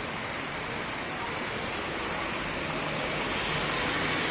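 Steady road traffic noise, an even rushing hum of passing vehicles.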